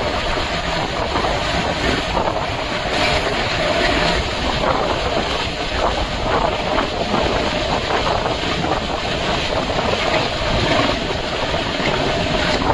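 Passenger train running at speed, heard from aboard a coach: a steady rush of wheel-and-track noise with wind buffeting the microphone.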